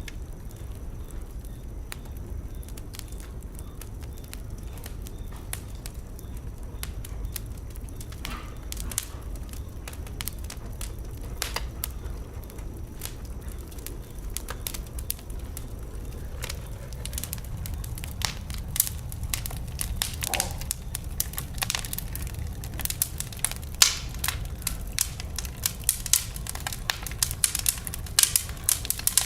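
Wood fire burning in a fireplace: a steady low rumble of flames with irregular sharp crackles and pops, which come thicker and louder in the second half.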